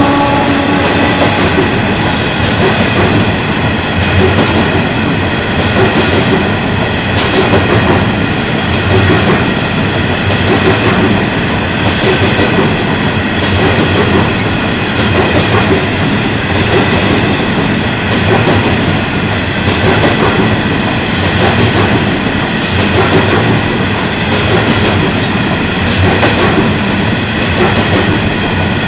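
Loaded or empty coal train's hopper wagons rolling past at speed: a steady loud rumble of steel wheels on rail with a rhythmic clickety-clack over the joints and a thin high ringing over it. A held pitched tone dies away within the first second.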